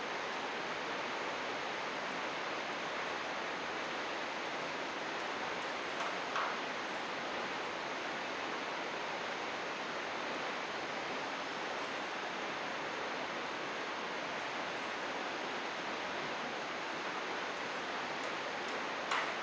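River water flowing and babbling steadily, an even rushing hiss. There is a brief faint higher sound about six seconds in and another near the end.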